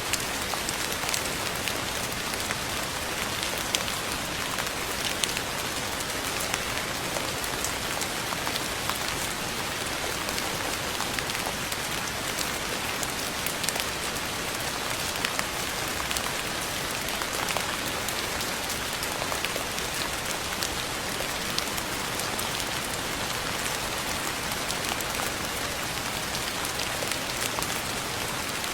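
Steady rain falling on a surface, with a dense patter of fine drop clicks.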